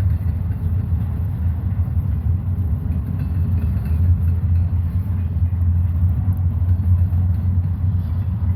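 Steady low rumble of a CSX intermodal stack train's well cars rolling past, mostly empties.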